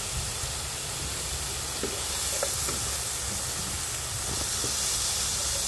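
Carrot sticks frying in oil with sautéed garlic and onion in a pan: a steady sizzling hiss, with a few faint clicks as they are stirred.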